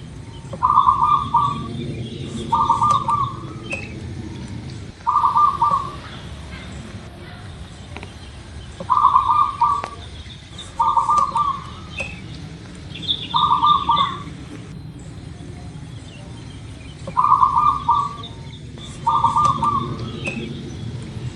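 Zebra dove cooing: about eight short phrases of quick stuttering coo notes, coming in twos and threes with pauses between. Fainter, higher chirps of other small birds are heard over a low steady background rumble.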